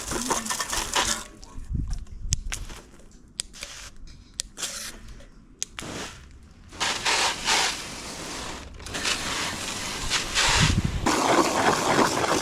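Water spraying in spells of hissing during a motorcycle wash, with scattered clicks and knocks between the sprays.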